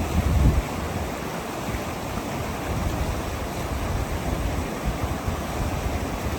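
Steady rush of a mountain creek, with gusts of low wind rumble on the microphone.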